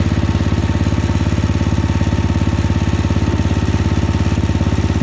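Gravely 8163B garden tractor's 16 hp Briggs & Stratton engine running steadily at a constant speed with an even, rapid firing pulse. The engine was cold-started about half a minute earlier and has not yet warmed up.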